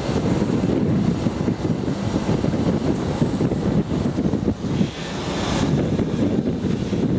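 Parking tram rolling along, a steady low rumble with wind buffeting the microphone.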